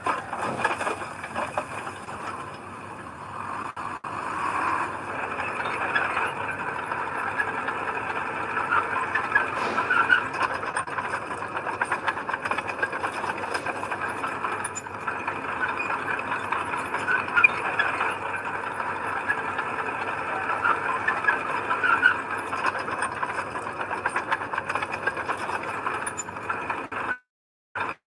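Heavy earthmoving machinery running, with continuous metallic squealing and rattling over the steady machine noise. The sound cuts off abruptly near the end.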